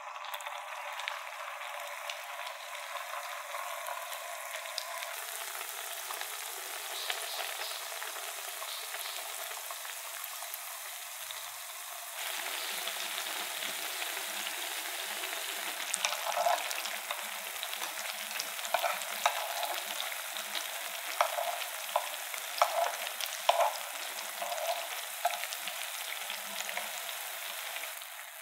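Potato cheese sticks deep-frying in hot cooking oil: a steady sizzling hiss that steps up louder about halfway through, with scattered pops and crackles in the second half.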